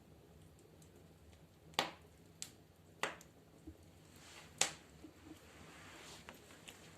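Wood fire burning in a fireplace stove: a few sharp crackling pops from about two to five seconds in, with a soft hiss of burning between them.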